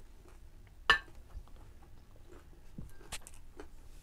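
Person chewing food with faint mouth noises, and a ceramic bowl clinking once sharply about a second in, followed by a few fainter clicks and taps.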